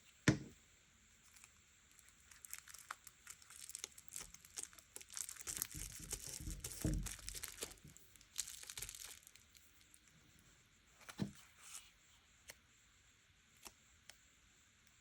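Paper being handled and torn: a crinkly rustling stretch from about two seconds in to about nine seconds, with a sharp tap just after the start and another about eleven seconds in.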